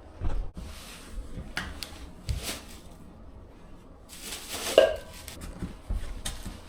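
Knocks and clunks of a train seat being shifted and fitted into place against the car's metal frame, with a louder scraping clank that rings briefly about four and a half seconds in.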